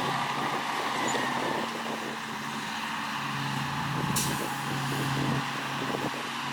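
Heavy diesel earthmoving machinery running steadily, with a short hiss about four seconds in.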